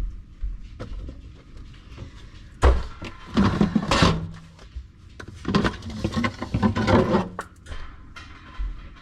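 Jars and food containers knocking and clattering as they are taken off a refrigerator shelf and set down, in two busy bursts, the first starting sharply about three seconds in and the second about two seconds later.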